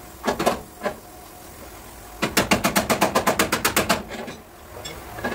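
A few separate knocks, then about two seconds in a fast, even run of sharp taps, about ten a second, lasting nearly two seconds: hammering on car body metal.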